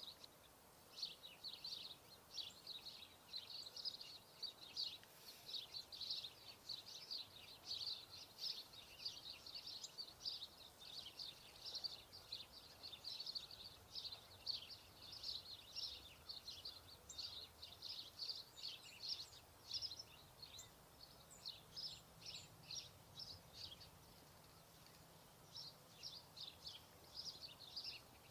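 Faint, busy chirping and twittering of small songbirds, many quick high notes, with a short lull about three-quarters of the way through.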